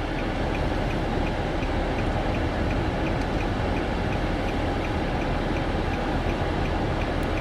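Car cabin noise while driving: a steady rumble of engine and tyres on the road, with a faint regular ticking about two to three times a second.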